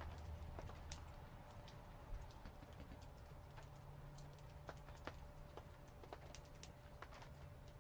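Wood fire crackling: irregular small pops and snaps, a few a second, over a faint steady low hum.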